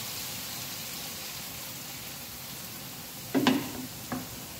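Sliced onions sizzling steadily in hot oil in a non-stick wok, with two short knocks near the end.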